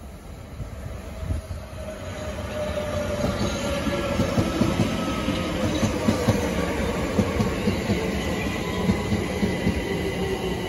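London Overground Class 378 electric train approaching and running past at close range, growing louder over the first few seconds. Its motor whine falls slowly in pitch as it slows, over rumble and a steady clatter of wheels on the rails.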